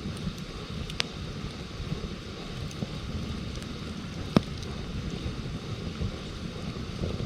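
Wood campfire burning, with a few sharp crackles, the loudest about four seconds in, over a steady low rumble.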